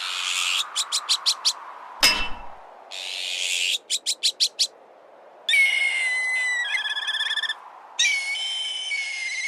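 Azure-winged magpie alarm calls: twice, a harsh rasping call followed by a quick run of about five short notes. A single sharp metallic clank rings out about two seconds in. Then two black kite calls, each a high whistle that breaks into a quavering trill, over a steady background rush.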